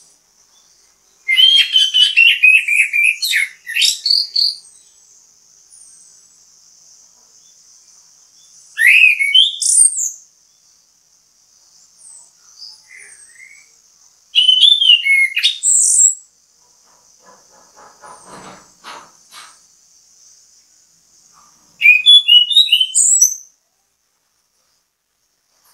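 Orange-headed thrush singing in four loud phrases of rich, varied whistled notes, each a second or two long and a few seconds apart. A steady faint high-pitched hum runs underneath.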